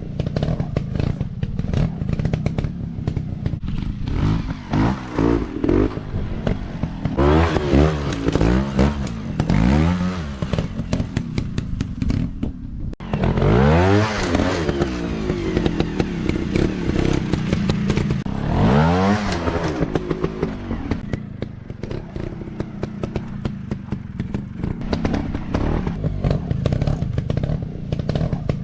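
Off-road dirt bike engines revving, their pitch climbing and falling again and again as the throttle is worked, with clattering and scraping mixed in.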